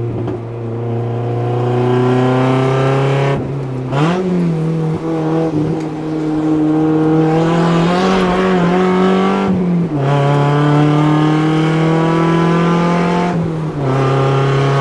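Mazda Miata's four-cylinder engine pulling hard through the gears, heard from inside the cabin. The pitch climbs steadily, drops at an upshift, and this happens three times.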